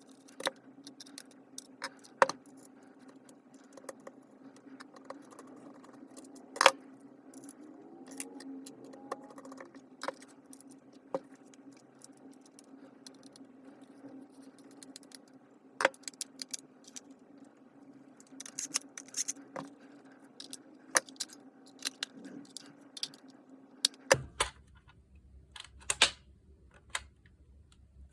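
Small metal parts of a Makita disc grinder clinking and clicking as they are handled, with scattered sharp clicks over a steady low hum. The hum stops abruptly a few seconds before the end.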